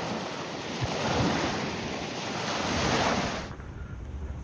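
Small surf washing onto a sandy beach, swelling twice as waves break, with wind buffeting the microphone. The sound drops off abruptly about three and a half seconds in.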